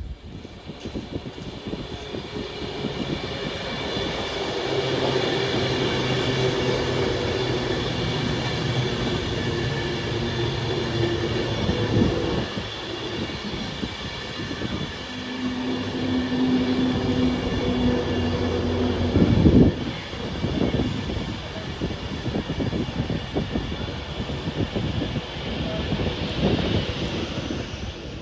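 A train passing on the main line. Continuous rumble and wheel noise carry several steady tones throughout, and the lower tones change partway through. A sharp loud knock comes about twenty seconds in.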